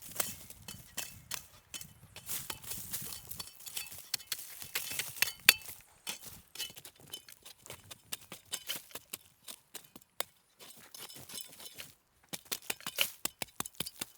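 A string of irregular sharp clicks and snaps, with short gaps about ten and twelve seconds in.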